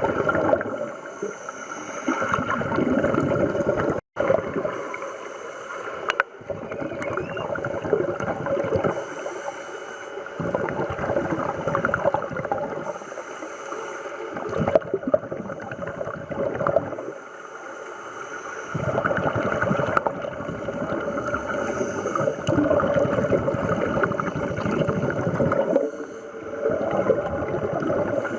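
Scuba divers exhaling underwater: regulator bubbles rush up in surges a few seconds long, one with each breath, about every four seconds.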